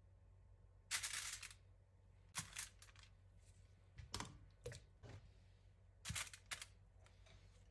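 Sauce-coated chicken pieces being set one at a time into a baking tray: about five short, soft taps and clatters spaced a second or more apart.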